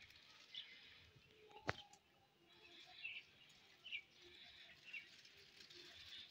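Near silence, with faint short bird chirps now and then and a single sharp click about a second and a half in.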